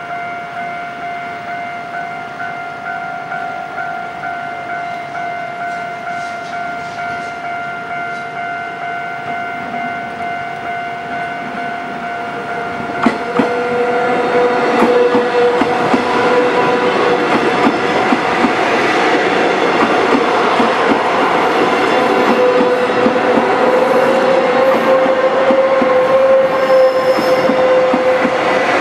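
Level-crossing warning bell ringing in quick, even pulses. About 13 seconds in, a Taiwan Railways EMU500 electric multiple unit passes close by over the crossing, louder than the bell, its wheels clacking over the rail joints.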